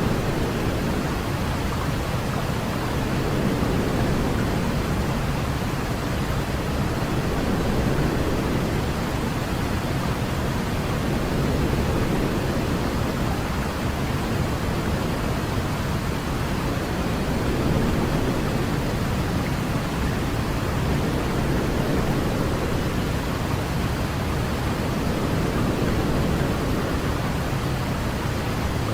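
Steady rushing noise from a baby-sleep noise track, heavier in the low end, swelling and easing gently every few seconds.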